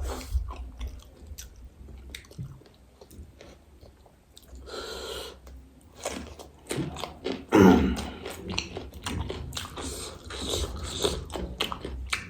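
Close-up chewing and biting of crisp panipuri shells and chatpate, with many short crunches and one louder burst about two-thirds of the way through.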